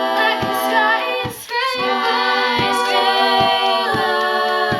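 Female a cappella group singing sustained wordless chords in close harmony, with a steady, low beat underneath.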